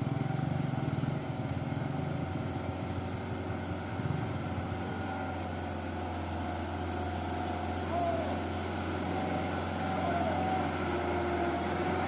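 Light diesel truck's engine running hard under load in a steady drone, rising slightly near the end, as it struggles up a slippery rain-soaked climb and fails to get over.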